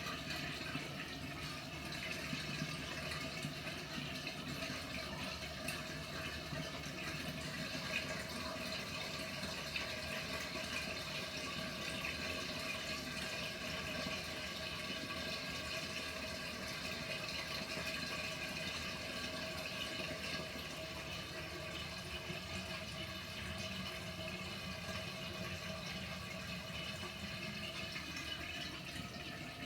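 Panasonic NA-FA100H9 top-loading washing machine running, with water steadily rushing and churning in the tub and a faint steady hum.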